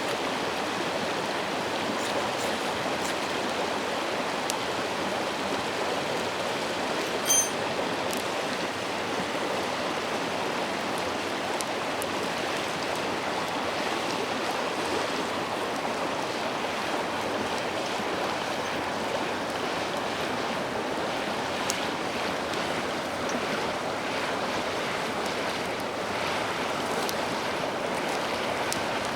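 A shallow, clear river babbling steadily over stones. A brief, sharp high-pitched clink sounds once about seven seconds in, with faint scattered ticks.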